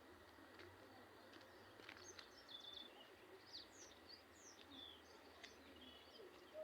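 Near silence with faint, scattered bird chirps: short high notes, some falling in pitch, over a soft background hiss.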